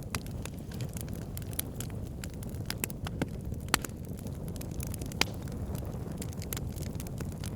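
Fire burning in a fireplace: a steady low rumble with irregular crackles and sharp pops throughout, two of them louder in the middle.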